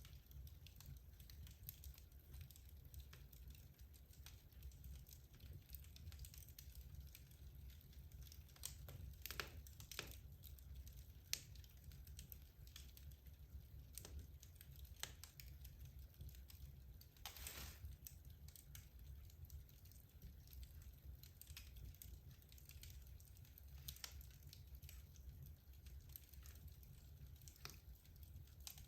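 Wood logs burning in a fireplace: faint, irregular crackles and pops over a low steady rumble, with one longer crackling burst a little past halfway.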